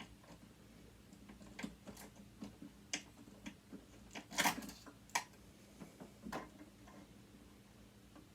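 Faint, irregular light clicks and taps of hand tools and metal parts as a sewing machine is worked apart, with one louder knock about four and a half seconds in.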